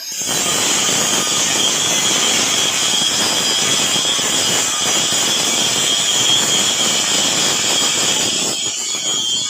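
Electric power tool running steadily, a loud hiss with a high whine, starting abruptly.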